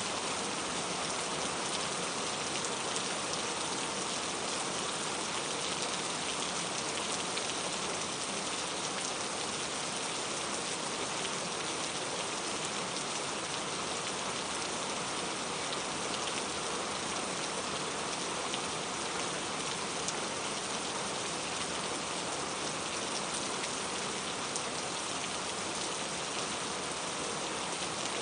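Steady rain falling and pattering on a surface, a dense even hiss of drops with fine scattered patters.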